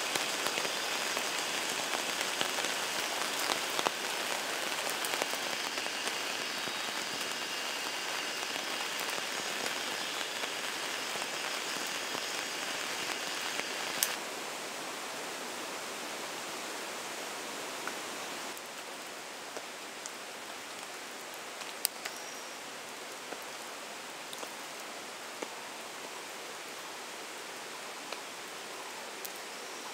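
Heavy rain falling steadily on surfaces, with a few sharp clicks. It drops abruptly in level about halfway through, and again a few seconds later.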